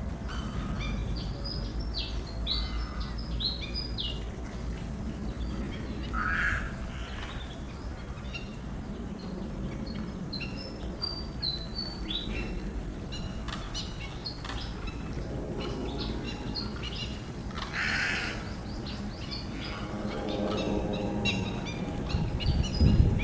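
Birds chirping: many short, high chirps in quick runs over a steady low rumble, with a brief hissing burst about six seconds in and again about eighteen seconds in.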